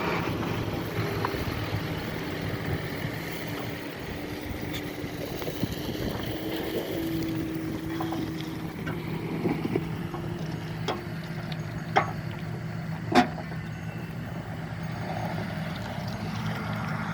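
John Deere T670i combine harvester running steadily as it cuts, a continuous low engine drone with a fainter higher hum. Two sharp clicks, about twelve and thirteen seconds in, stand out above the drone.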